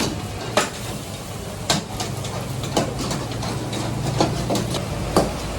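Irregular knocks and clanks, about one every half second to a second, over a steady low machine hum.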